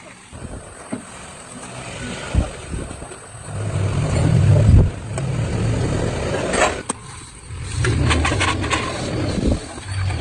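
Restored 1980 200cc off-road motorcycle's engine running. It comes up strongly about three and a half seconds in, then rises and falls repeatedly as it is revved.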